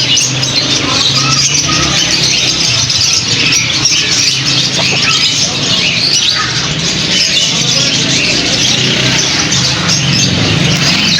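Many small birds chirping and chattering together in a dense, continuous din, with a low hum underneath.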